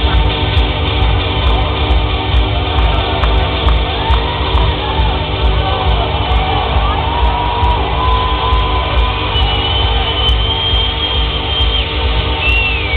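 Loud electronic dance music (techno/trance) from a large live sound system with a steady pounding bass beat, recorded from within the crowd, with some crowd shouts over it.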